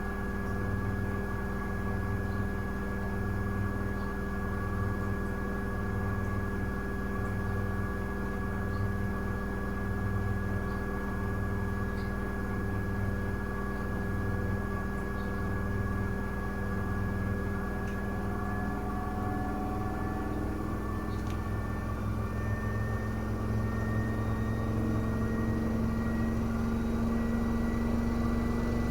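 Miele W1 washing machine drum turning on the motor, a steady whine over a hum that pulses about once a second. About two-thirds of the way in the whine starts to climb slowly in pitch as the drum speeds up into a spin.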